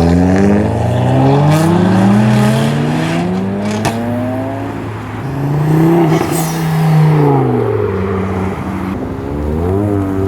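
A car engine revving, its pitch climbing and falling several times: up over the first two seconds or so, up again around six seconds and held briefly, down, then rising again near the end.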